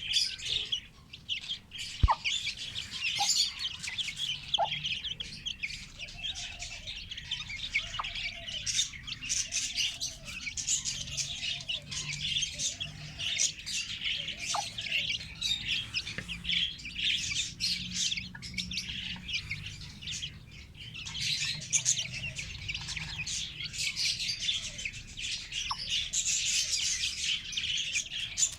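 Many chicks cheeping constantly in high, overlapping peeps, with a hen's lower clucks repeated about once a second through much of it. A single sharp click comes about two seconds in.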